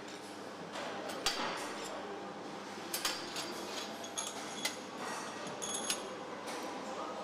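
Engine assembly-line noise: a steady machinery hum with scattered sharp metallic clinks and clicks of parts and tools, a few of them ringing briefly.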